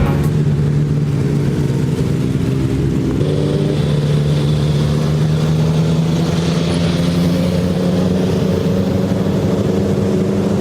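Motorcycle engine running at a steady speed while riding, holding an even pitch throughout.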